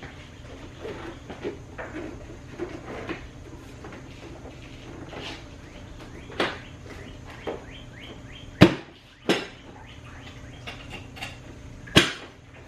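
Scattered clicks and knocks of things being handled, with three sharp, loud knocks near the end, over a steady low hum.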